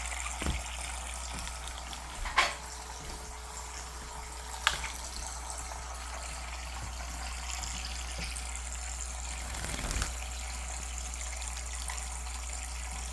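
Tap water running steadily into a bird bath, with two short sharp sounds about two and a half and nearly five seconds in.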